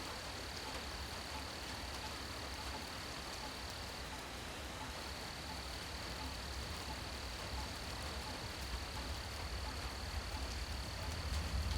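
Steady rain pattering, with scattered drips and a constant high, thin drone of night insects over it that falters briefly about four seconds in. A low rumble builds near the end.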